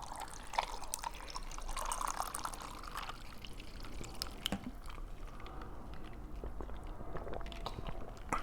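Agua de Jamaica (hibiscus water) being poured into a glass, with a splashing pour strongest a couple of seconds in and small clicks scattered throughout.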